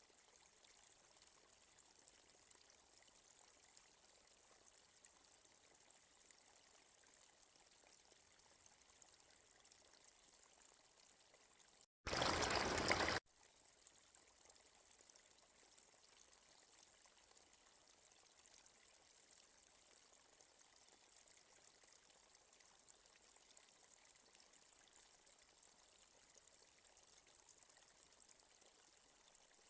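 Forest stream flowing faintly and steadily, a soft even rush of water. About twelve seconds in the sound drops out for an instant, then a loud, flat burst of noise lasts a little over a second before the stream returns.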